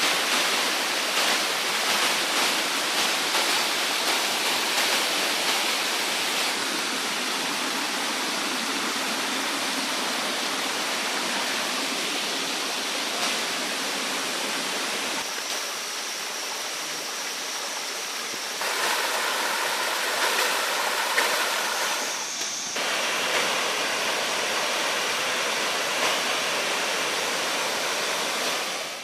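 Waterfall: a steady rush of falling water, changing in tone a few times (about 6, 18 and 22 seconds in).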